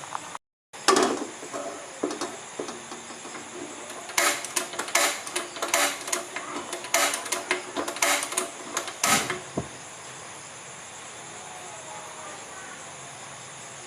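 Kitchen utensils and containers being handled during food preparation: a sharp knock about a second in, then a run of quick clicks and taps for about five seconds over a steady background hiss.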